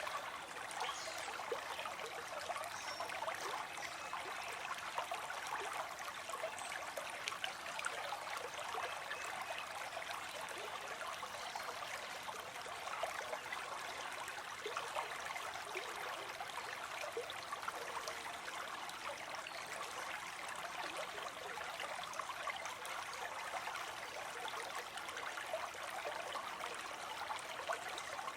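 Small stream running and trickling over stones: a steady babble with many small splashes, at an even level throughout.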